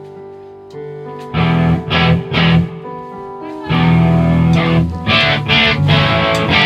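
Electric guitar strummed through an amp: a ringing chord, then a few separate strums, then fuller, louder chords held from about halfway.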